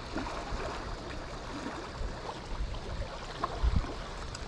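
River current rushing and churning around the rocks of a wing dam, a steady sound of moving water, with a couple of brief low bumps about three and a half seconds in.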